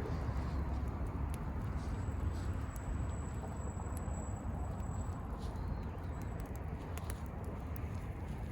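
Wood bonfire burning, with scattered sharp crackles and pops of the firewood over a steady low rumble.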